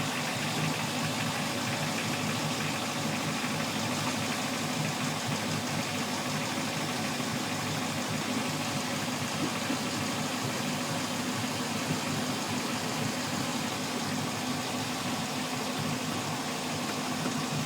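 MerCruiser 7.4 MPI big-block V8 marine engine idling steadily.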